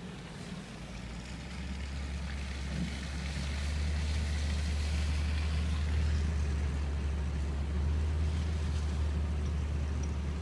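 Car driving, heard from inside the cabin: a steady low rumble of engine and tyres on the road with a hiss of road noise, growing louder over the first few seconds and then holding steady.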